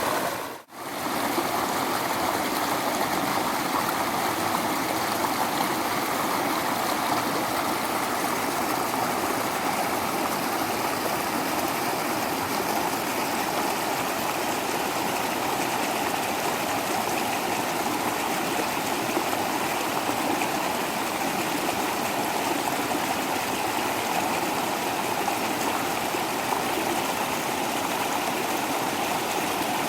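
Waterfall water rushing and splashing steadily, with a brief dropout less than a second in.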